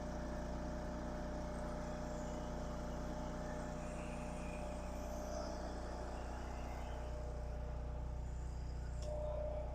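An engine or motor running steadily, giving an even low hum with a faint steady higher tone.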